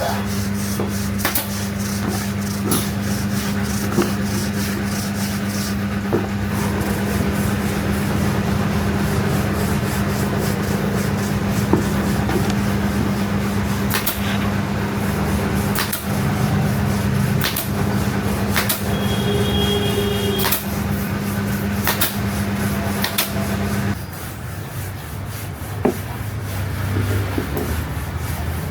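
Electric power tool running steadily with a rough sanding, rubbing sound, switched off about 24 seconds in, with scattered light knocks throughout.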